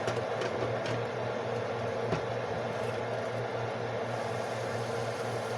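Chicken, onion, veggies and beans sizzling in a frying pan over a steady low hum, with a few light clicks in the first couple of seconds.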